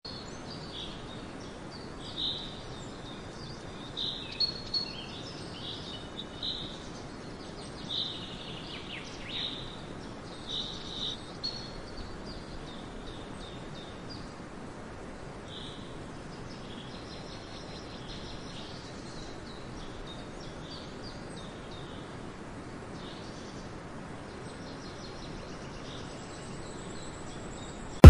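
Birds chirping over a steady background hiss: short, high chirps come repeatedly through the first half, then only the hiss remains.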